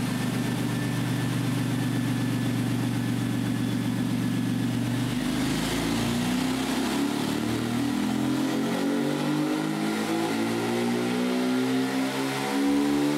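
Car engine on a chassis dyno: it runs at a steady low speed for about five seconds, then a full-throttle pull starts and the pitch climbs steadily as the engine revs up under load. The exhaust runs through an exhaust cutout.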